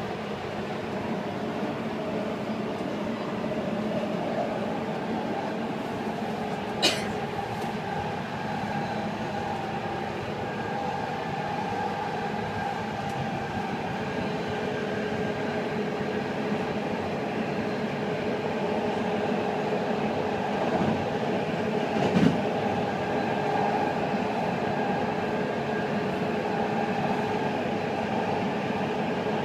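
Running noise heard from inside a moving BART train car: a steady rumble with a steady hum, and a second steady tone coming in about halfway. Two sharp clicks stand out, one about seven seconds in and a louder one about twenty-two seconds in.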